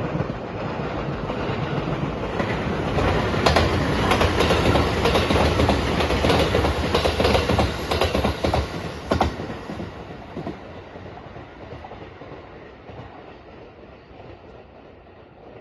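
A train passing at speed, its wheels clacking over the rail joints. The sound builds, is loudest in the middle, then fades away as the train leaves.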